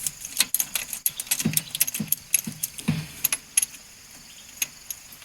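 Metal tools clicking and clinking while spark plugs are loosened and taken out of a car engine: a run of sharp, irregular metallic clicks with a few duller knocks, thinning out in the last second or so.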